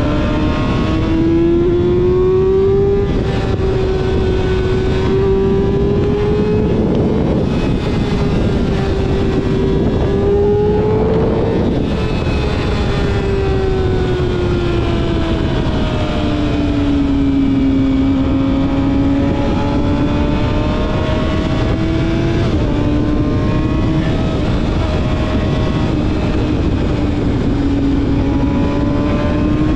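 Yamaha YZF-R6 inline-four sport bike engine through a full-system aftermarket exhaust, pulling at high revs while riding, its pitch climbing in the first few seconds, holding, easing down around the middle and then swelling gently again. Wind noise rushes on the microphone underneath.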